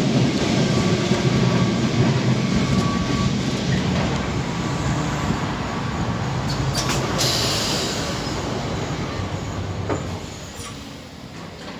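Lisbon Tram 28 streetcar running on its rails: a steady rumble and rattle. About six and a half seconds in there are a couple of sharp knocks and then a brief hiss. The sound dies down near the end and then comes back up.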